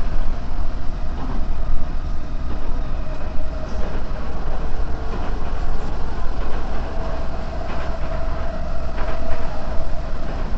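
Odakyu 4000 series electric train running at speed, heard from inside the passenger car: a steady rumble of wheels on rails with a faint motor tone that rises slightly in pitch in the second half. Heavy downpour beating on the car adds to the noise.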